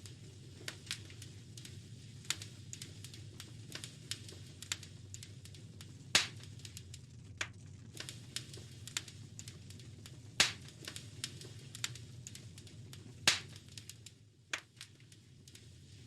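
Wood fire crackling in a fireplace: a steady low rumble of flames with irregular snaps and pops, three of them much louder than the rest.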